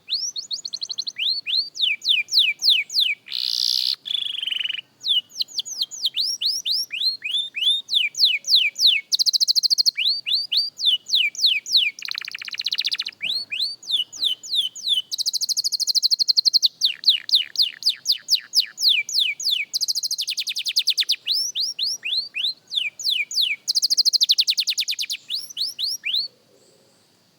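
Young canary singing a long practice song: runs of repeated whistled notes that each slide downward, broken several times by fast rolling trills. It stops abruptly about a second before the end.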